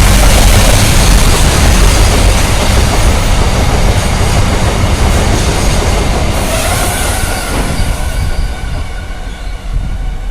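Train running past close by: a loud rumble and clatter of wheels on rails, fading away over the last few seconds.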